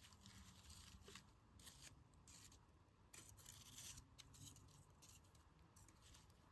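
Campfire wood crackling faintly, with scattered irregular small pops and snaps.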